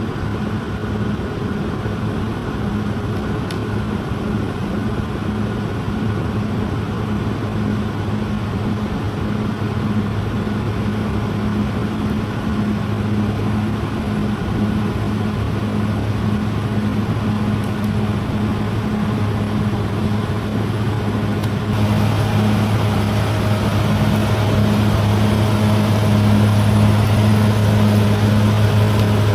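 Bulldozer's diesel engine running steadily with a deep, even hum, growing louder about two-thirds of the way in.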